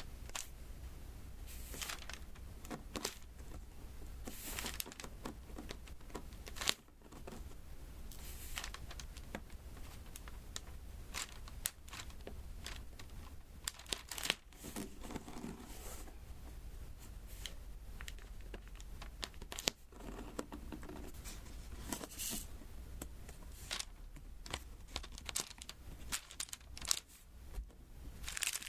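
Diamond painting: resin drills pressed one by one onto the sticky adhesive canvas, a steady run of small irregular taps and sticky crackles several times a second.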